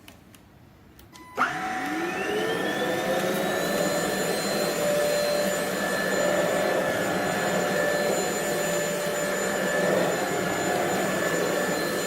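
BISSELL CleanView Pet Slim corded stick vacuum switched on about a second and a half in. Its motor spins up with a rising whine over a couple of seconds, then runs steadily with a high whine over a loud rush of air.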